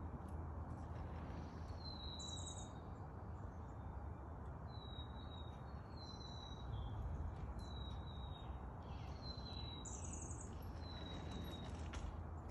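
A bird calling over and over, each call a short, high, slightly falling note about a second or so apart, over a steady low background rumble.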